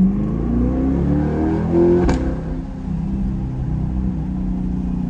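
Sports car with an aftermarket AWE exhaust accelerating hard: the engine note climbs in pitch, then an upshift about two seconds in cuts it off with a sharp crack, and it runs on at a lower, steadier pitch.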